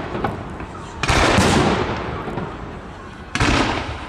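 Fireworks display: two loud aerial shell bursts about two and a half seconds apart, each a sharp bang followed by a long echoing rumble that fades away.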